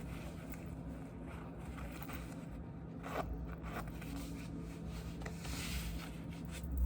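Clothes being handled and changed: fabric rustling and scraping in short strokes, with a zipper, and a longer rustle about five to six seconds in.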